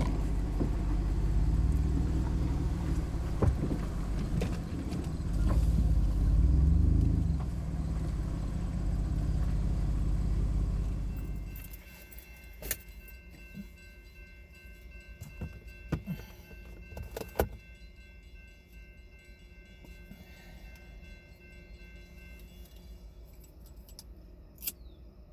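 Steady low road and engine noise from inside a moving car. About halfway through it cuts away, and a railroad grade-crossing warning bell rings steadily while the crossing gate lowers, stopping shortly before the end, with a few sharp clicks.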